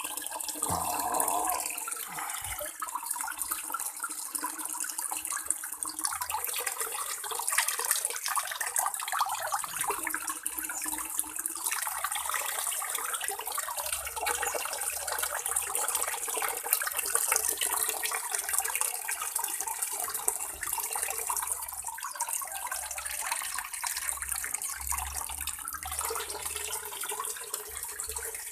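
Steady hiss of running, splashing water, even throughout with a fine crackle on top.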